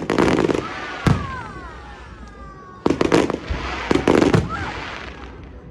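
Fireworks going off: a sharp bang right at the start, another about a second in, then a cluster of bangs around three and four seconds, each trailing off as it fades.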